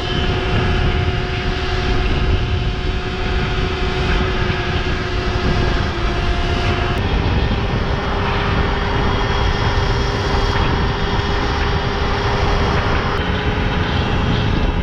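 Electric dirt bike riding at speed, its motor giving a steady whine under heavy wind rush on the microphone. About halfway through the whine changes, settling on a single slightly higher tone.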